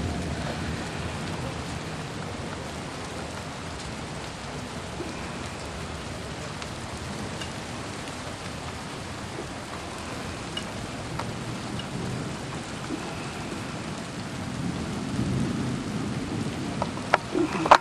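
Steady heavy rain of a thunderstorm, with low rolls of thunder fading at the start and swelling again about fifteen seconds in. A few sharp knocks near the end.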